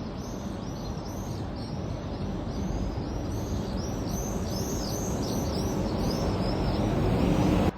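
A flock of swallows calling in flight: a quick, steady run of high chirps, about three a second. Beneath it is a rushing outdoor noise that grows louder and cuts off abruptly near the end.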